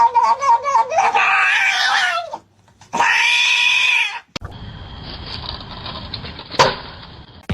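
A cat yowling: two long, wavering cries, the second starting about three seconds in. This is followed by a steady noise with a single sharp knock near the end.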